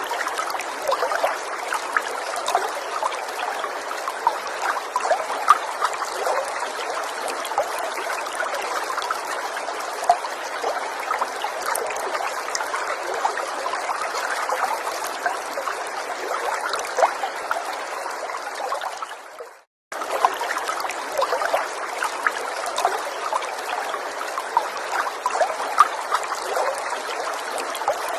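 Small forest stream trickling and gurgling steadily over stones. The sound fades out and cuts off for a moment about two-thirds of the way in, then comes straight back the same.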